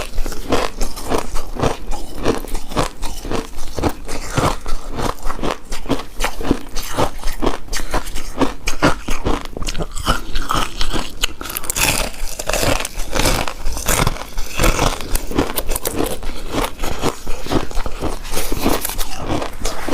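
Close-miked chewing and biting of a chewy rice cake coated in shredded coconut: a dense, continuous run of small mouth clicks and crackles.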